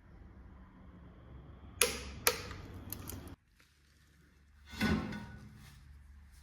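Two sharp clicks about half a second apart, then after an abrupt cut a dull thud over a low hum.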